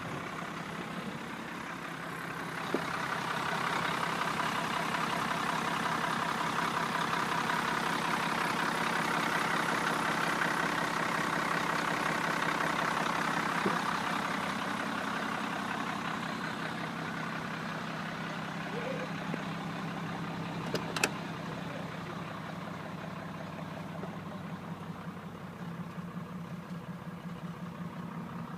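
Engine of a 1991 Ford F600 truck running steadily at idle. It grows louder for several seconds early on, then settles back. There is a single sharp click about two-thirds of the way through.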